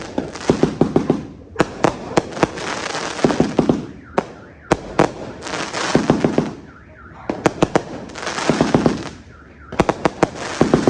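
A 330-shot fireworks cake firing: volleys of sharp bangs every two to three seconds, each volley followed by a loud hissing crackle that dies down before the next.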